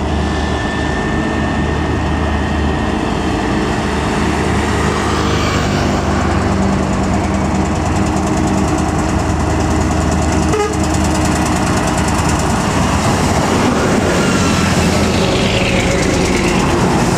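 Heavy diesel road vehicles passing close by, with steady engine noise and tyre roar. A pitch falls near the end as one goes past.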